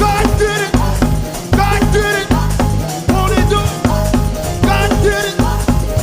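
Live church band playing loud, up-tempo gospel music with a steady driving beat and a heavy bass line.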